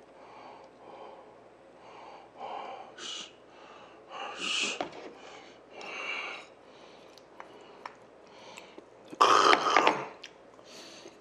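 Close-miked chewing and mouth noises of someone eating cubed radish kimchi, with breaths between bites. About nine seconds in comes a louder burst of dish noise lasting about a second.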